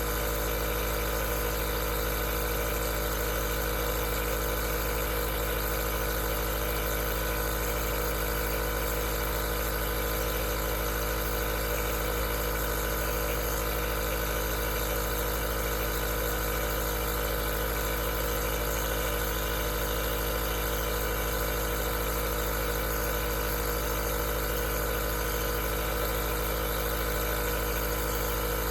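Aerosol nebulizer running steadily: a constant motor hum with a hiss over it, unchanging throughout.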